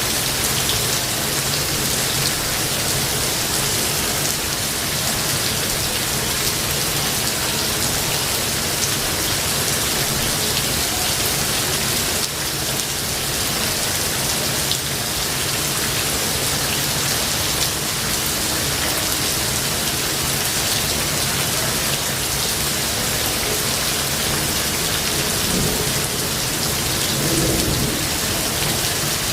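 Steady, dense rainfall in a forest, with a low rumble of thunder underneath.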